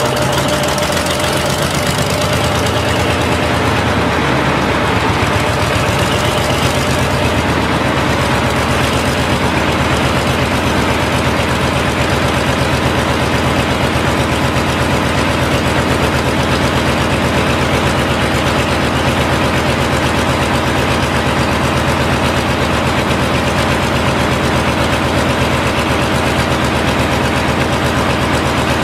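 An engine running steadily at an even speed, with no change in pace.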